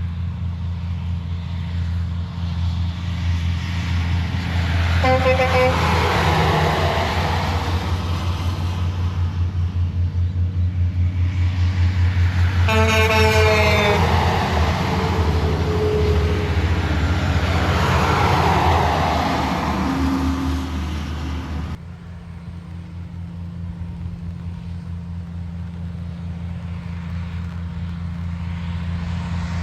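A convoy of semi-trailer trucks passes one after another, the noise swelling as each goes by, over a steady low hum. Two air-horn blasts sound from the passing trucks: a short one about five seconds in and a longer, louder one about thirteen seconds in. The sound drops abruptly a little after twenty seconds.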